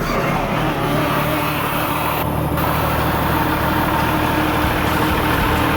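Cummins 6BT 12-valve inline-six diesel in a wheel loader, running steadily just after a cold start in deep cold (about −20 to −24).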